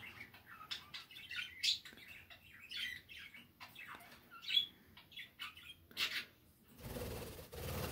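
Pet birds chirping in short, scattered high calls, mixed with small clicks and scrapes. A soft rushing noise comes in about seven seconds in.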